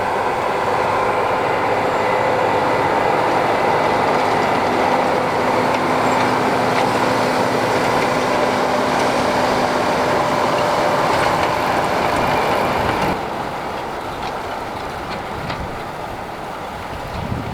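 Tractor and hay baler running steadily: a loud machine drone with a steady whine through it. About thirteen seconds in it drops to a quieter level, with a few light clicks.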